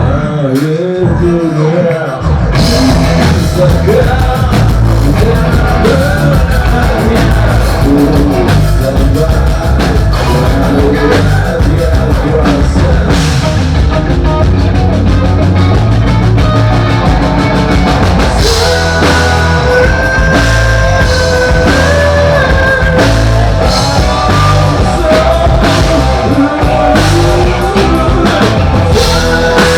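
Rock band playing live: drum kit, bass and electric guitars, with the drums coming in hard about two seconds in. Held, melodic lead lines come in over the band in the second half.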